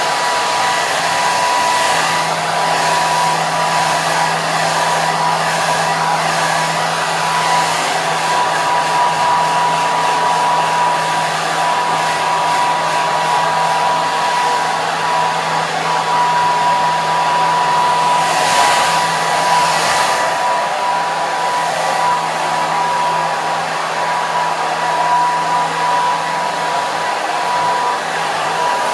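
Hair dryer running continuously: a steady rush of air with a thin whine and a low motor hum underneath, briefly brighter about two-thirds of the way through.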